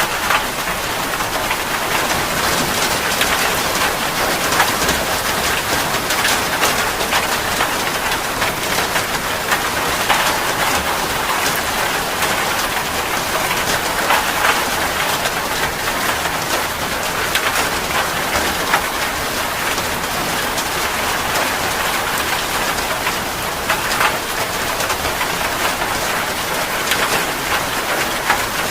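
Steady heavy rain: a dense, even hiss with many sharp individual drop spatters scattered through it.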